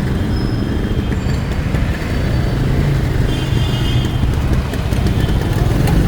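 Wind buffeting the microphone on a moving motorbike, over the steady rumble of the engine and road noise.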